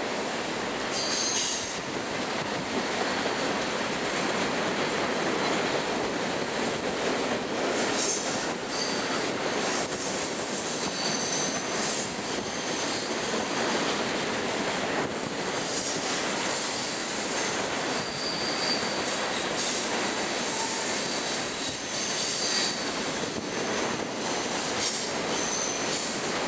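Empty open-top hopper cars of a long freight train rolling past on a curve: steady wheel-and-rail noise with high-pitched flange squeals coming and going.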